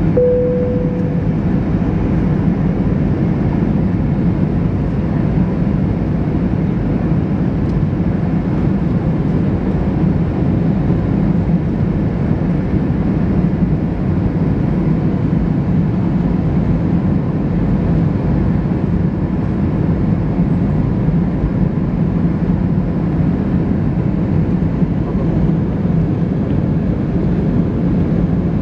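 Steady cabin noise inside an Airbus A320-214 airliner on its approach to land: the drone of its CFM56 turbofan engines and the rush of air past the fuselage. A short steady tone sounds in the first second.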